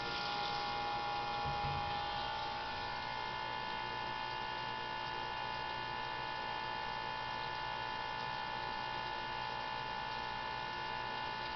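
A steady electrical hum and whine made of several constant tones; the strongest, highest-sounding tone weakens a couple of seconds in.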